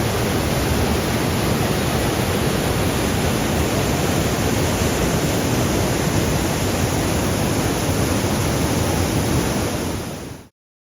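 Waterfall crashing down, heard close as a steady, dense rush of white water that cuts off suddenly near the end.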